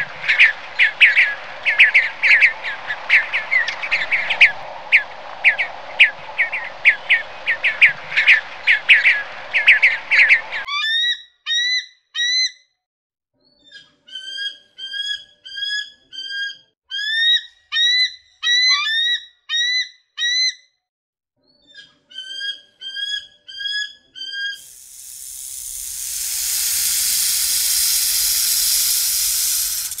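Three animal sounds in a row: quail calling in a dense, rapid series for about ten seconds; then a guan giving short whistled notes in quick runs of four or five, with pauses between runs; then, from a few seconds before the end, a Persian horned viper's loud, steady hiss.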